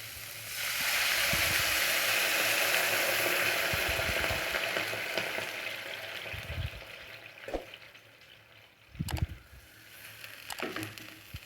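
Chopped vegetables sizzling in hot oil in a pan as they are stirred. The sizzle swells about a second in and slowly dies down, with a few knocks in the second half.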